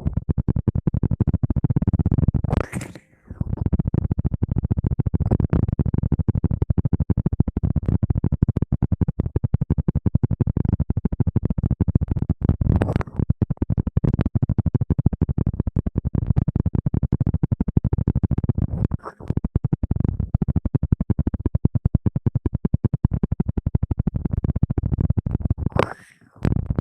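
Fast, continuous rubbing and scratching right against the microphone, a dense rustle of strokes heaviest in the low range, broken by short pauses about three seconds in, around the middle and again near the end.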